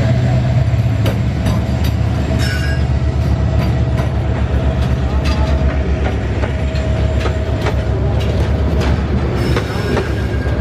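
Bangladesh Railway diesel-electric locomotive of an express train passing close by, its engine drone giving way after a few seconds to passenger coaches rumbling past, with wheels clicking over the rail joints.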